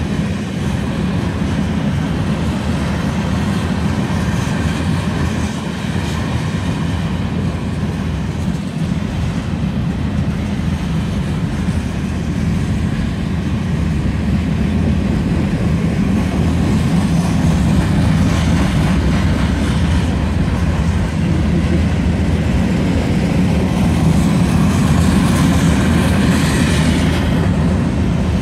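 Freight train of open-top hopper cars rolling past steadily, with a continuous low rumble of wheels on rail and rhythmic clickety-clack over the rail joints. Near the end a higher-pitched hiss swells up over the rumble.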